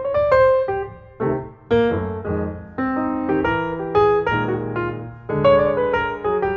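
Background music: solo piano playing a gentle melody with sustained chords.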